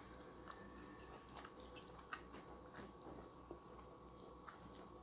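Faint chewing with a scatter of small, short mouth clicks as a person eats chicken biryani with her hands.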